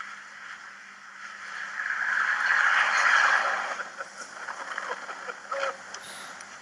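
A car driving past, its noise swelling to a peak about three seconds in and then fading away.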